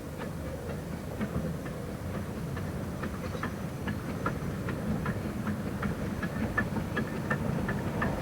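Narrow-gauge train running along the line: a steady low rumble with an even run of light clicks, about three a second, growing plainer from about three seconds in.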